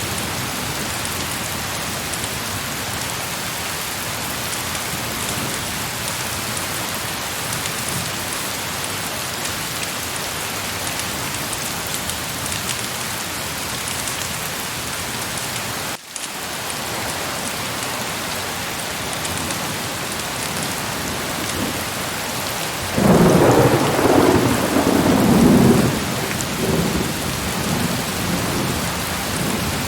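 Heavy rain falling steadily, with a short break in the sound about halfway through. A loud rumble of thunder comes about three-quarters of the way in and dies away over a few seconds.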